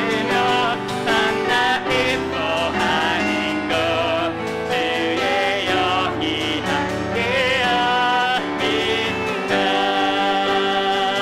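Church praise team singing a worship song with piano accompaniment: sustained chords under a wavering sung melody.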